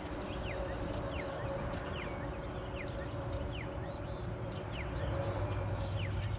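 Birds chirping over and over in short, quick falling and curling calls, over a steady low hum and rumble.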